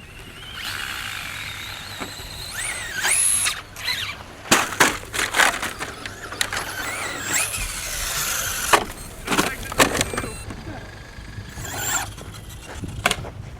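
Radio-controlled off-road trucks' motors and gears whining high, sliding up and down in pitch as they speed up and slow, broken by several sharp knocks of landings or crashes.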